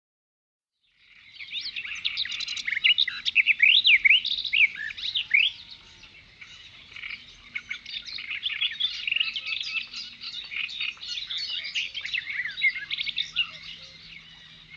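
A chorus of many small birds chirping and twittering together, starting about a second in, loudest a few seconds after it begins.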